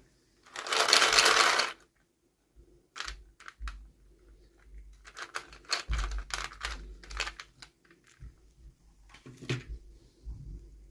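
Unboxing of small plastic toys: a loud rustle of packaging lasting about a second near the start, then scattered light clicks and taps of small plastic pieces being handled, with a busy run of them in the middle.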